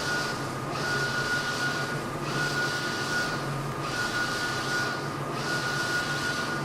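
Mutoh Blizzard wide-format inkjet plotter printing. The print-head carriage sweeps across about every second and a half; each pass is a hissing whir with a steady high whine, and there is a short dip as it turns, over a low steady hum.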